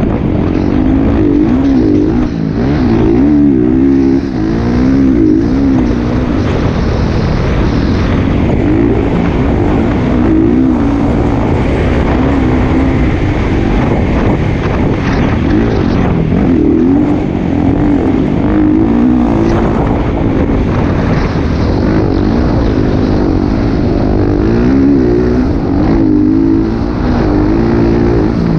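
Motocross dirt bike engine running hard, its pitch rising and falling repeatedly with the throttle.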